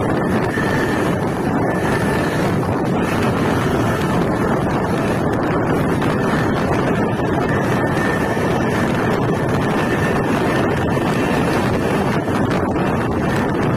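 Passenger train running at speed, heard from an open coach door: a steady rush of wind on the microphone over the rumble of the wheels on the rails.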